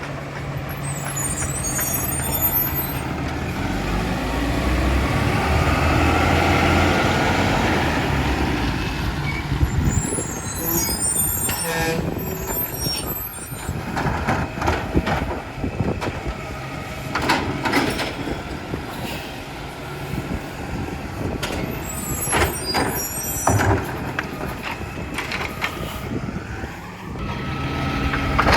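New Way Sidewinder side-loading recycling truck's diesel engine running and revving up, with three sharp air-brake hisses and a run of knocks and clanks in the second half.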